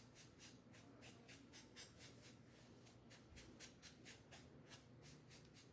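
Faint, quick scratchy strokes of a paintbrush dabbing yellow acrylic paint onto a wooden cutout, about four strokes a second.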